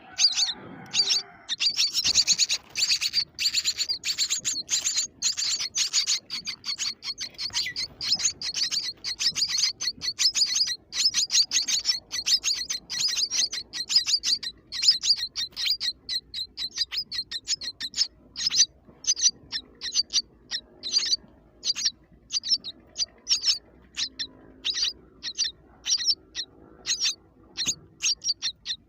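Baby birds chirping shrilly, a dense rapid stream of calls at first that thins out after about the halfway point into separate chirps.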